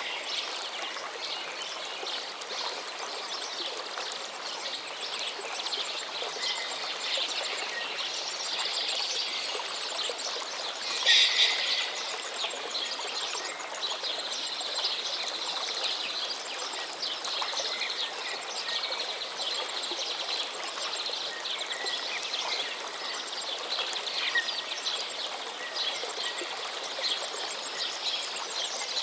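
Outdoor nature ambience: a steady background hiss with many small birds chirping and twittering throughout, and one louder call about eleven seconds in.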